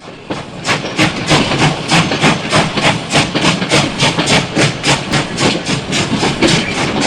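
Steam locomotive chuffing at a steady pace, its exhaust beats coming about three or four a second.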